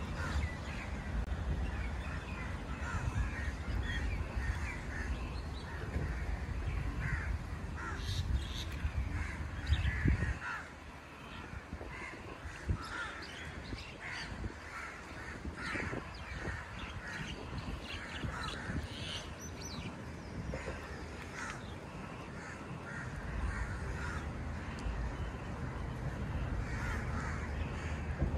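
Birds calling repeatedly, many short calls scattered throughout, over a low rumble that drops away about a third of the way through and comes back near the end.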